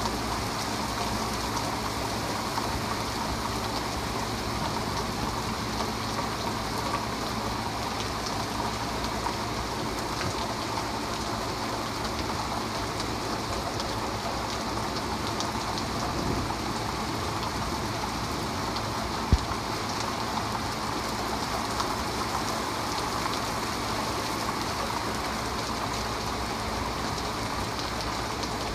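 Steady rain pouring down, a dense even hiss of drops on pavement and surfaces, with one sharp click about two-thirds of the way through.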